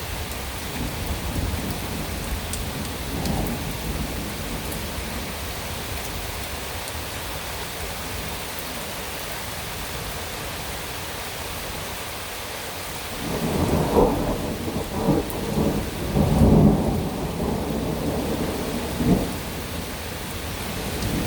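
Heavy rain pouring steadily during a thunderstorm. A low rumble of thunder comes a couple of seconds in. From about two-thirds of the way through, a long, loud roll of thunder swells and peaks several times before dying away.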